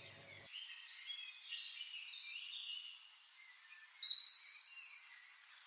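Small birds chirping faintly, with a brief cluster of high whistled notes about four seconds in.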